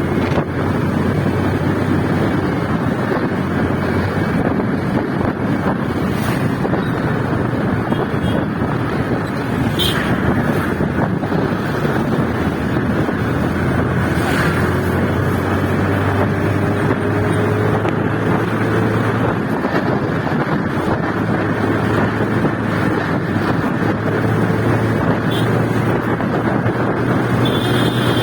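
Motorcycle riding at a steady pace, its engine running with a steady low hum under heavy wind rush on the microphone.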